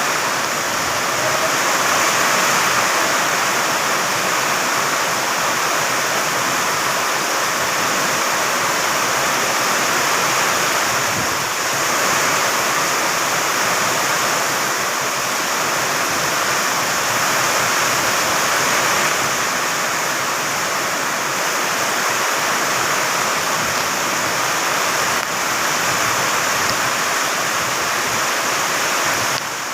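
Heavy rain pouring down in a dense, steady roar, driven by strong wind, swelling a little now and then.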